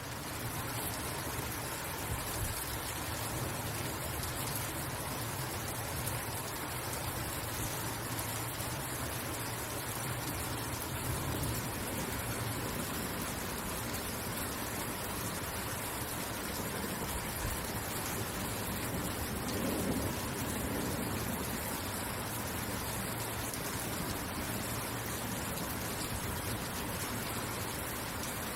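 Steady rainfall, an even hiss across the whole range. A low rumble runs underneath in the first half, and there is a brief swell about twenty seconds in.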